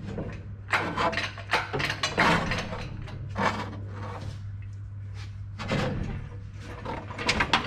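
A run of irregular knocks and clatters, several a second in places, over a steady low hum.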